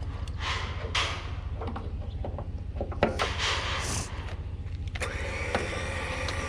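A winch line slowly pulling a zero-turn mower on flat tires up a trailer ramp, over a steady low hum. Scraping and rattling come near the start and again about three seconds in, and a steadier motor whine sets in about five seconds in.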